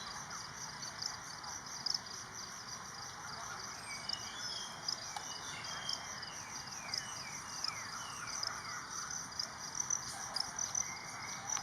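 A steady, shrill, pulsing chorus of insects, with a bird giving a run of short whistled notes that each fall in pitch, from about four to nine seconds in.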